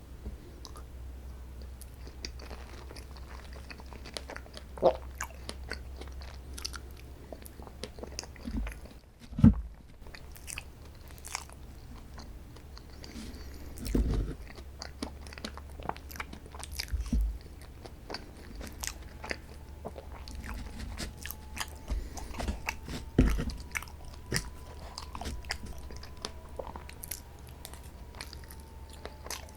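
Close-miked eating of strawberry sweets: bites and chewing with soft crunches and small wet clicks, a few bites louder than the rest.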